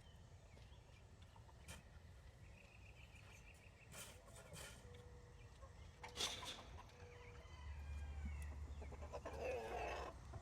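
Backyard chickens clucking softly, with a few short knocks and rustles in between; the clucking gets busier near the end.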